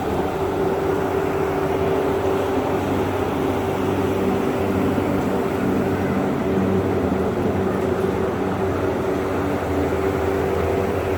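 A steady mechanical drone with a constant hum that does not change.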